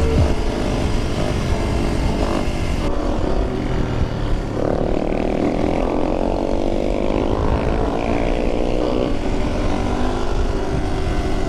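Single-cylinder motorcycle engine running under way, with wind rushing over the helmet-cam mic. About four seconds in, the revs climb steadily for several seconds as the bike accelerates, then settle.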